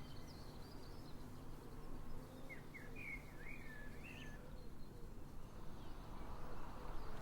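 Outdoor ambience: a steady low background hum with small birds chirping, in a short run of chirps a few seconds in.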